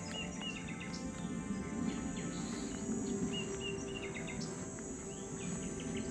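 Small birds chirping in quick runs of short notes over a steady high drone of cicadas, with a low, even rumble underneath.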